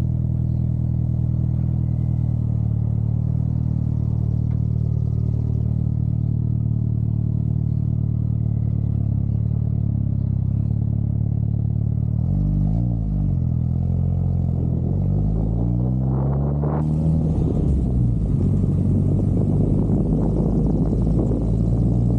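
Toyota Celica GT-Four's turbocharged four-cylinder engine running while driving. About halfway through the revs dip and then climb, and near the end a strong rush of wind noise joins the engine as the car gathers speed.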